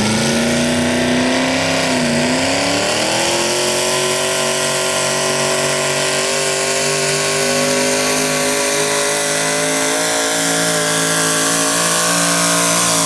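Small-block 350 Chevrolet V8 in a modified 4x4 pulling truck running flat out under load while pulling the sled. The revs dip briefly about two seconds in, then climb slowly and hold high.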